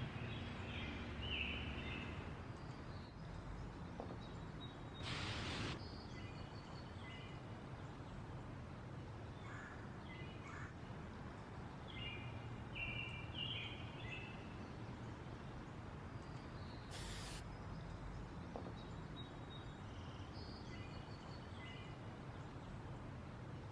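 Scattered bird chirps and calls over faint, steady woodland ambience. Two brief rustling noises stand out, one about five seconds in and another about two-thirds of the way through.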